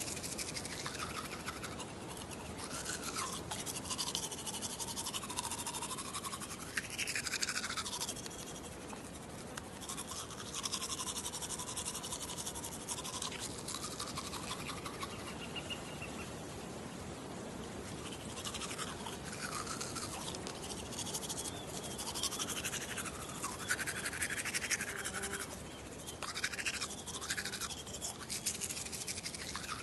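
Toothbrush scrubbing teeth in a wet mouth: continuous fast, scratchy bristle strokes, the tone wavering as the brush moves around the mouth.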